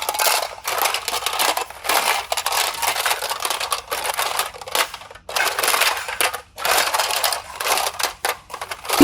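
Slime being squeezed and worked by hand, giving irregular crackling, crunchy bursts with short pauses between them.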